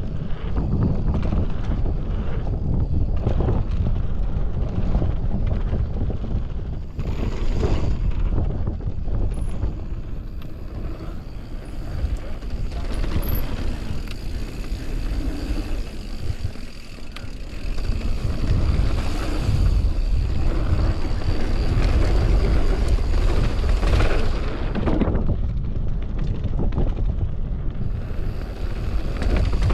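Mountain bike riding down a dirt trail: wind rushes over the microphone, with tyre noise and knocks and rattles from the bike over bumps.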